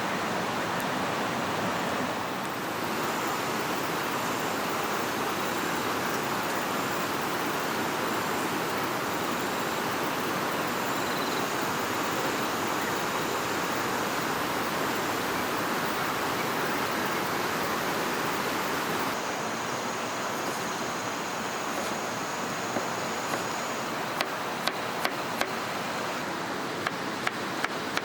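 Steady rush of flowing river water, with faint high thin tones above it and a run of sharp clicks in the last few seconds.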